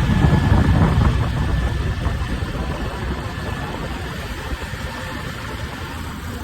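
Preet 987 combine harvester's diesel engine running as the machine travels, a dense low rumble that eases slightly after the first couple of seconds, with a faint steady whine above it.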